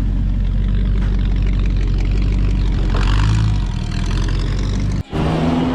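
Prewar car's straight-eight engine running steadily at idle with a low, even note. About five seconds in, the sound cuts off abruptly and gives way to a different engine with a steady whine.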